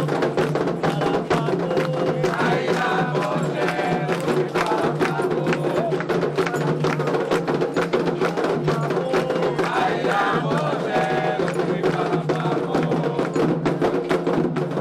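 Candomblé ritual music: fast, continuous hand-drum and struck percussion rhythm with a group singing a chant.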